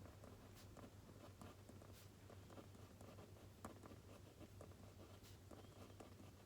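Faint pen scratching on paper while writing by hand, with small irregular clicks and taps, over a low steady hum.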